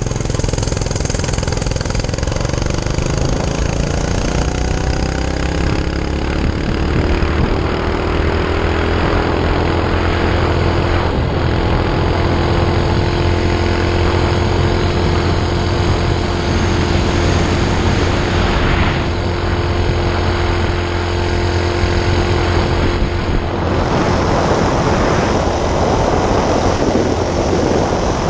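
Minibike's 5 hp Honda single-cylinder four-stroke engine revving up under hard acceleration, its note climbing for several seconds and then holding steady at full throttle. Near the end the steady note gives way to a rougher, noisier rush.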